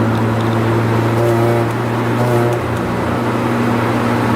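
Honda Accord's F22B1 2.2-litre four-cylinder VTEC engine heard from inside the cabin, running at a steady cruise. It makes an even low drone over tyre and road noise.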